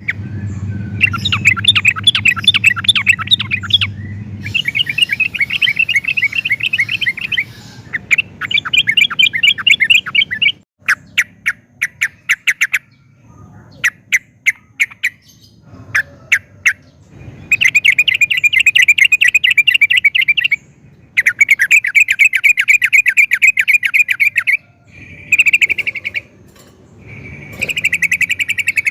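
Yellow-vented bulbul (trucukan) singing: fast chattering phrases of rapidly repeated notes, each a few seconds long, broken by short pauses and runs of single sharp notes.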